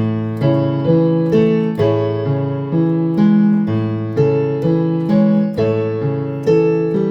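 Electronic keyboard with a piano voice playing a slow hymn accompaniment: sustained chords struck about twice a second, each fading before the next, with no singing.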